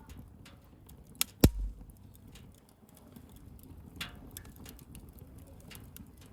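Wood bonfire crackling, with scattered small ticks over a low rumble. Two sharp pops come about a second and a half in, the second the loudest and followed by a brief low thud, and a smaller crack comes about four seconds in.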